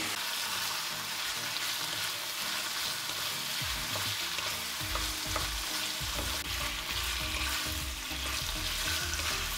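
Diced chicken breast sizzling in vegetable oil in a frying pan: a steady hiss. From about four seconds in, a wooden spatula scrapes and knocks against the pan as it stirs the pieces.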